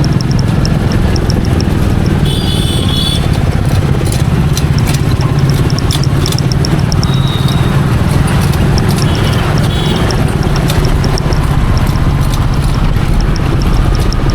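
Royal Enfield Meteor 350's single-cylinder engine running steadily under way, a constant low rumble mixed with wind and road noise.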